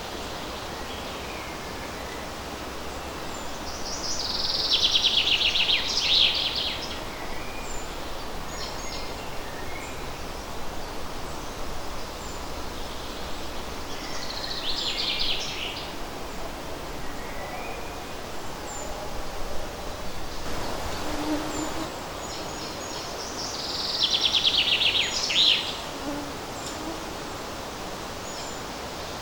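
A songbird sings a short, fast, high trilled phrase three times, about ten seconds apart. Under it runs the steady rustle of leaves in a light breeze, with a few faint short chirps between the songs.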